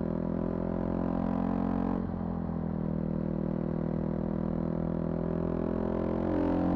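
Car engine running while driving at low speed, a steady engine note that changes abruptly about two seconds in and climbs in pitch and gets a little louder near the end.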